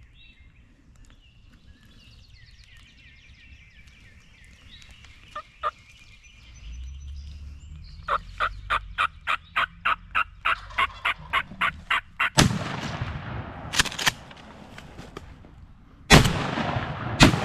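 A quick run of about fourteen sharp turkey call notes, about three a second, then a shotgun fired three times at turkeys: once about twelve seconds in, then twice close together near the end. The shots are the loudest sounds.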